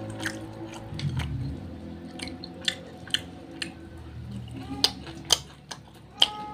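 Eating sounds of crispy fried chicken: a string of sharp crunches and mouth clicks as the battered skin is torn and chewed, a few louder ones in the second half.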